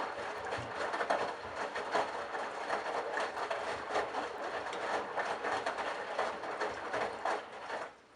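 Candy Bianca washing machine drum turning, with laundry and water sloshing and clattering inside. It stops abruptly near the end, as the drum pauses between turns of the delicates cycle.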